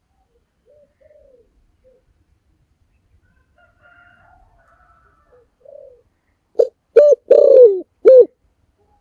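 Spotted dove cooing. Faint coos come first, then, about six and a half seconds in, a loud phrase of four coos, the third long and falling in pitch.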